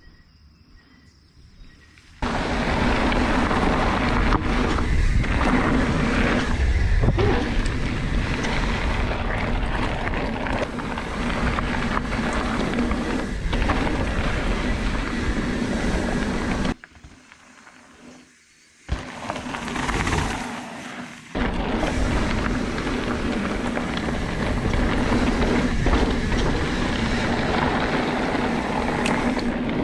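Wind rushing over the microphone and tyres rumbling on dirt as a Specialized Stumpjumper mountain bike is ridden fast down a trail. The noise starts suddenly about two seconds in and drops away briefly past the middle.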